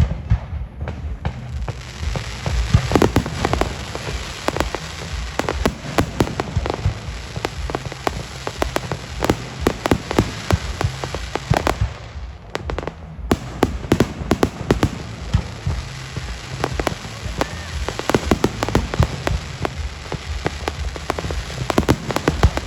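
Fireworks going off in a rapid, continuous run of bangs and crackling bursts, with a brief lull about halfway through.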